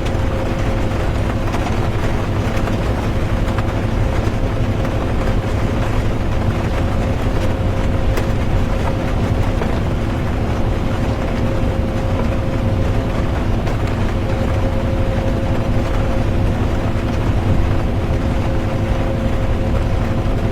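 Bus interior at cruising speed: a steady low engine rumble and road noise with a constant drivetrain hum, under a hiss of rain.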